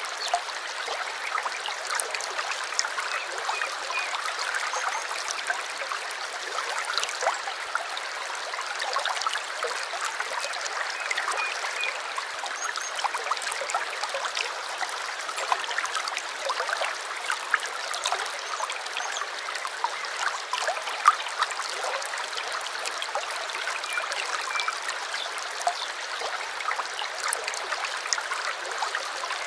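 Small stream flowing steadily, a continuous trickle with many small splashes and drips.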